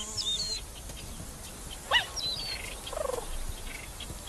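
Birds calling over a faint ambient background: several short chirps and whistles, with one call rising sharply in pitch about two seconds in and another sweeping down about a second later. A faint steady hum stops about half a second in.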